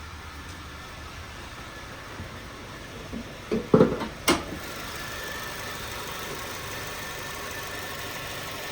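Honda Fit GD3's 1.5-litre four-cylinder engine idling steadily with its valves freshly adjusted and no valve clicking to be heard. A few short knocks come near the middle, and the idle gets slightly louder after them.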